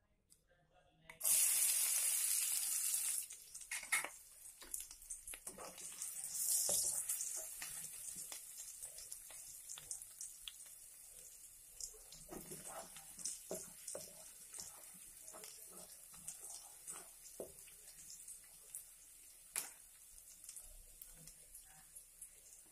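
Sliced red onions frying in hot oil in a non-stick wok: a sudden loud sizzle about a second in, then a steadier, quieter sizzle with many small crackles and pops.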